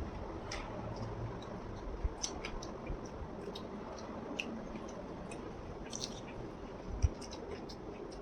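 Close-up chewing and biting of crispy pata, the deep-fried pork leg's crackling skin giving scattered small crunches and clicks, with a single dull thump near the end.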